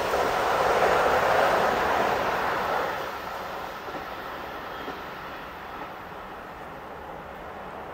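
Passing electric train's running noise on the rails, fading away as it recedes: loudest for the first couple of seconds, then dying down to a faint rumble.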